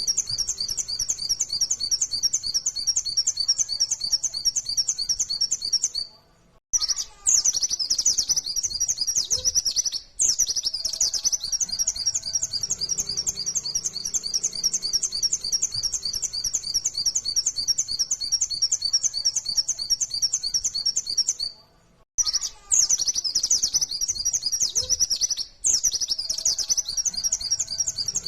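White-eye (pleci) singing a long, fast run of high, rapidly repeated chirping notes, broken twice by short pauses.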